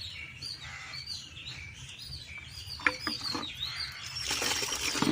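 Small birds chirping over and over in short, high calls. A single sharp click, the loudest sound, comes about three seconds in, and a brief hiss near the end.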